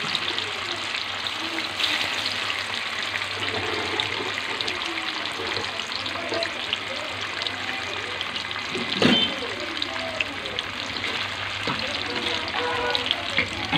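Slices of tofu frying in hot oil in a wok: a steady crackling sizzle with many small pops, and one sharp knock about nine seconds in.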